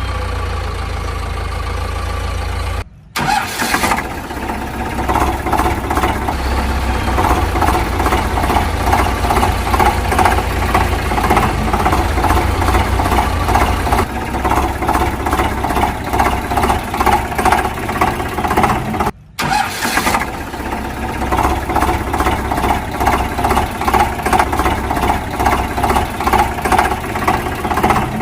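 Tractor engine running with a rapid, regular chug. It cuts off briefly twice, about three seconds in and again a little past halfway, and comes straight back each time.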